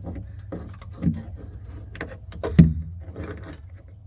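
Light knocks and clicks of hands working with tools and tubing over a low steady hum, the loudest knock a little past halfway. No hiss of air comes from the pressurized capillary tube, which is pinched shut.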